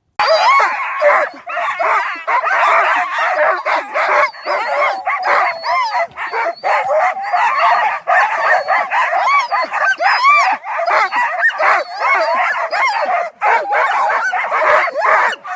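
Many sled dogs barking, yelping and whining over one another in a loud, unbroken din, the excited clamour of a dog team being hooked up to run.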